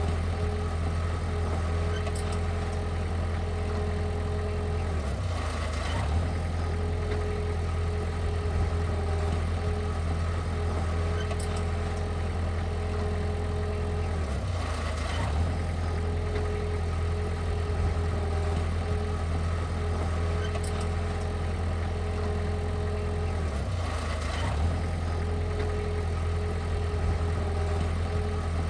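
Heavy diesel engine of earthmoving equipment running steadily, with a brief change in its note three times, about nine to ten seconds apart.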